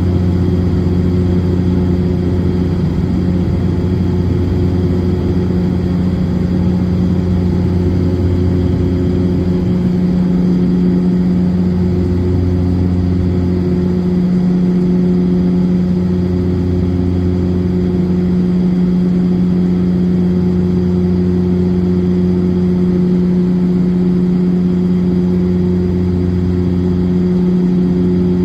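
Cabin drone of a De Havilland Dash 8-400 turboprop in flight: a steady low propeller hum with a few fixed tones, heard from inside the passenger cabin. From about ten seconds in, the lowest tone swells and fades every couple of seconds, the beat of the two propellers turning slightly out of step.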